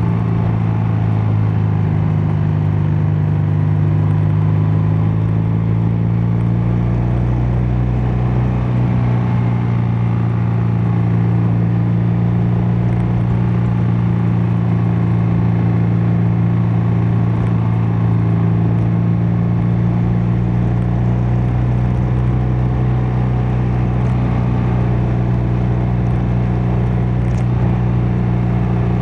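BMW R12 nineT's 1170 cc boxer twin running steadily under way, the exhaust note dipping slightly in pitch over the first several seconds and then holding steady at cruising speed.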